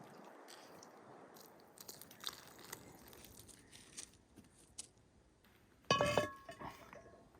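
Camp cookware being handled while making coffee: scattered light clicks and taps, then a sharp metal clank with a short ringing tone about six seconds in.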